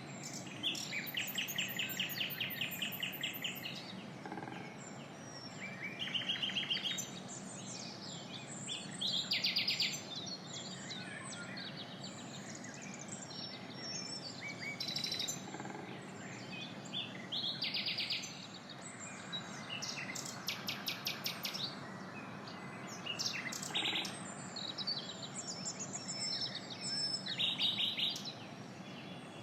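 Several birds chirping and singing, with a fast trill coming every few seconds over a steady background hiss.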